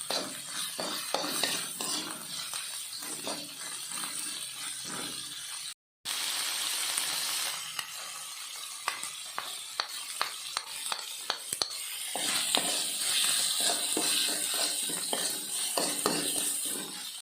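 Food sizzling as it fries in a pan while a spatula stirs it, with frequent short clinks and scrapes of the utensil against the pan. The sound drops out for a moment about six seconds in, and the sizzle grows stronger in the second half.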